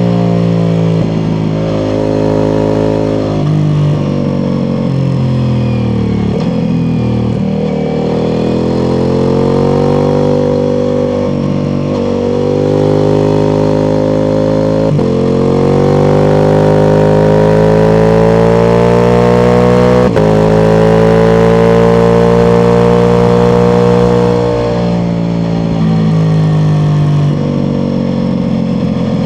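Ducati Multistrada V4 Pikes Peak's V4 engine through an Akrapovič exhaust, ridden briskly: revs climb and drop through a series of gear changes, then hold a long steady high-rev pull in the middle before falling away near the end.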